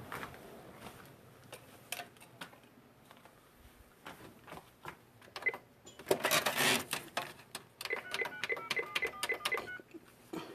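Handling clicks and a burst of rustling, then a quick run of about ten short beeps, like phone keypad tones as a number is dialled.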